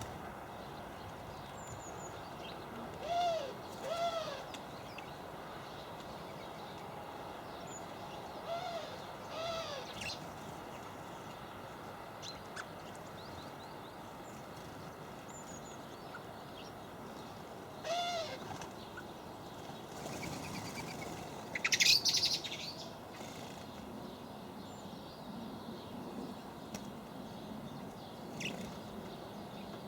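Garden birds calling: short, arched, overtone-rich notes, mostly in pairs, come a few times, and a brief louder high-pitched burst of calls or wing flutter comes about 22 seconds in.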